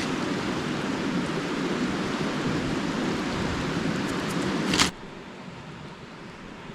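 Eggs frying in a pan, a steady sizzle that stops abruptly about five seconds in with a brief click, leaving a quieter background hiss.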